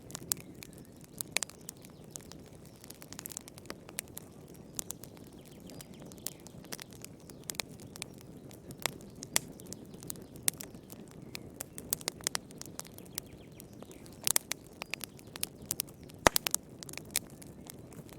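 Wood fire crackling in a fireplace: irregular sharp pops and snaps, a few louder ones, over a soft steady low rush of the flames.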